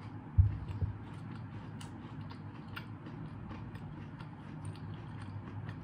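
A person chewing a bite of a spicy fried-chicken burger: faint, irregular wet clicks and crunches of the mouth, with a single dull thump about half a second in.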